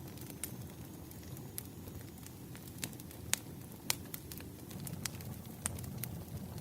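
Wood fire burning: a steady low rumble of flames with scattered sharp crackles and pops, two of them louder about halfway through.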